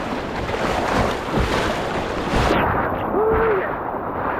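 Wind buffeting the microphone over water splashing around a kayak on the river, swelling louder about a second in and again past the middle.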